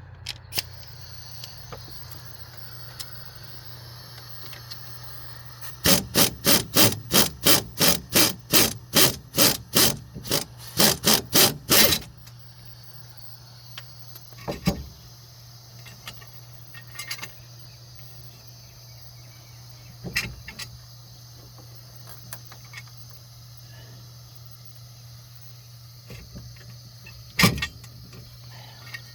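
Impact wrench on a wheel-hub bolt, run in a quick series of short bursts, about three a second for some six seconds, over a steady low hum. A few single metallic knocks follow, one loud one near the end.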